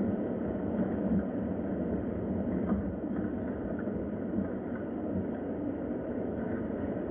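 Steady rain ambience: a continuous low rushing noise with faint scattered ticks over it.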